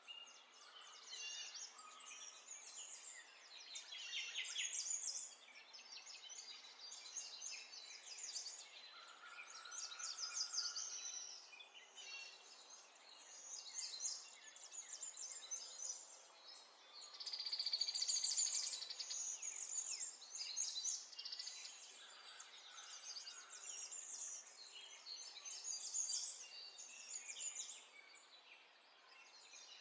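Small birds chirping and twittering, with quick high trills; the loudest, densest trilling comes a little past the middle.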